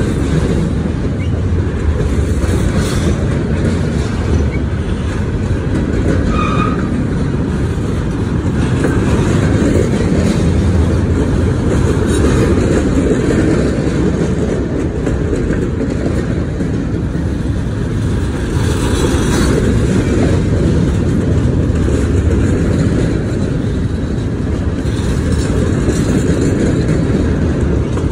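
Freight train's steel-wheeled gondola cars rolling past: a steady, loud rumble of wheels on rail.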